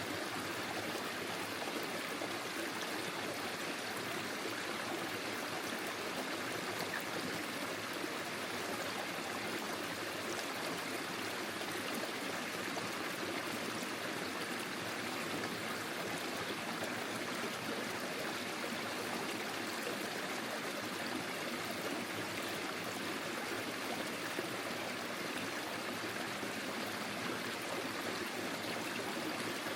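Forest stream flowing steadily over its bed, an even rushing of water.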